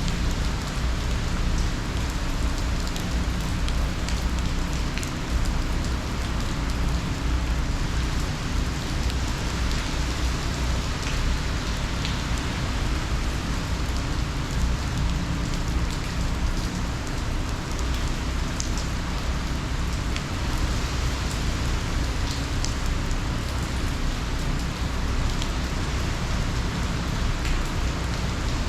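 Hurricane rain falling hard and steadily, over a constant low rumble.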